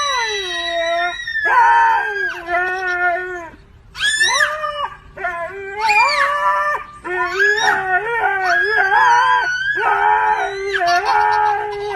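A dog howling in a run of long, wavering calls with short breaks between them.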